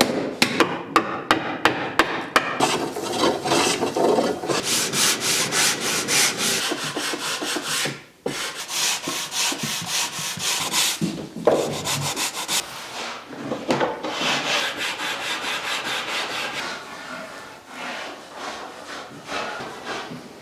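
Hand tools working wood: a run of sharp taps at the start, then quick repeated rasping and rubbing strokes on wood.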